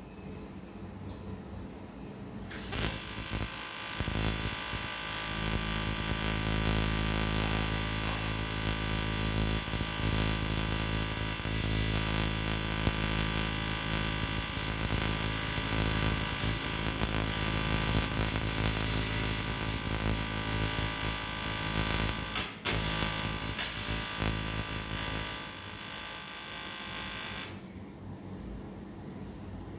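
AC TIG welding arc on an aluminium motorcycle cylinder block, a steady loud buzz with a hiss. It starts a couple of seconds in, breaks off for a moment and restarts, runs quieter near the end, then stops.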